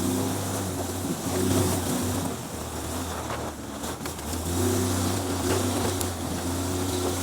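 A Jeep's engine pulling under load as it crawls along a rough off-road trail, easing off briefly in the middle and then picking up again, with a few light knocks from the rough ground.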